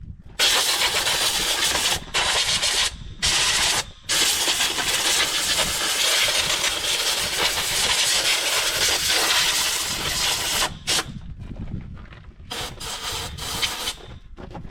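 Compressed-air blow gun hissing in blasts: three short blasts, then one long blast of about six seconds, then a few short spurts near the end.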